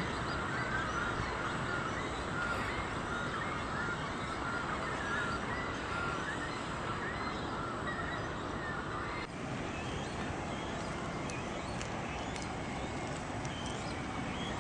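Birds calling with short repeated chirps over a steady outdoor background hiss. The sound changes abruptly about nine seconds in, and faint higher ticks follow.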